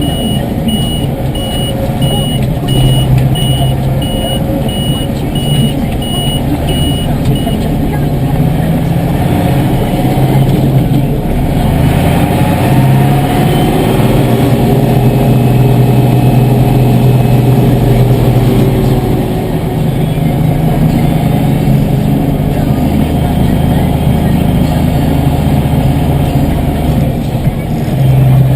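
Tractor diesel engine running steadily, its note rising and falling around the middle. A repeated electronic beep, like a reversing alarm, sounds for the first seven or so seconds.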